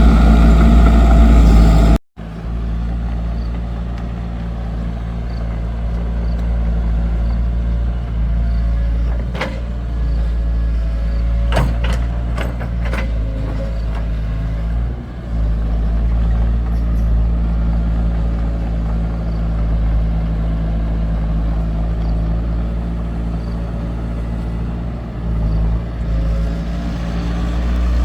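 Excavator's diesel engine running steadily under work. The sound cuts abruptly about two seconds in to a quieter drone, and a few sharp metallic clanks come near the middle.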